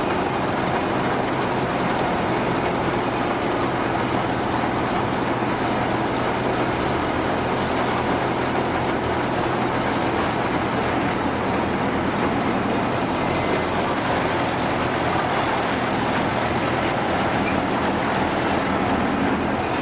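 A heavy vehicle's engine running steadily, a low steady hum under dense mechanical noise.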